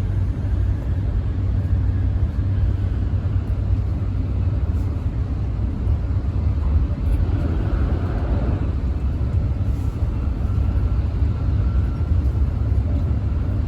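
Tokaido Shinkansen bullet train running, heard inside the passenger car: a steady, low rumble of running noise with no change in level.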